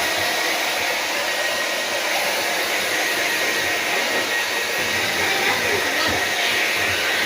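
Hair dryer blowing steadily: a constant rushing air noise with a faint high whine.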